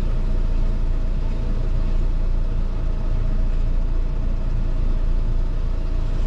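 Fendt 412 tractor's diesel engine running steadily at a constant speed, a heavy low drone with a faint steady whine above it.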